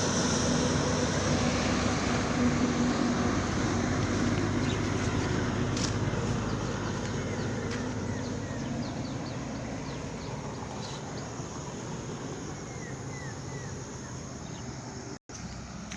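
A road vehicle moving away, its engine and road noise fading steadily. A few faint chirps come near the end, and the sound cuts out for a moment just before it ends.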